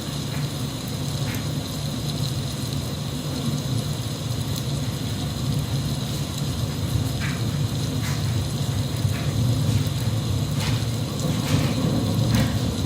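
Steady rain with a low rumble underneath and scattered sharp drop ticks.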